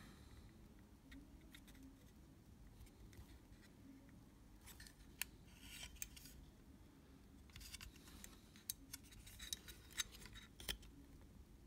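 Faint, scattered small clicks and light scraping from small hand tools working on a camera's cloth shutter curtains. The clicks are sparse at first and come more often in the second half.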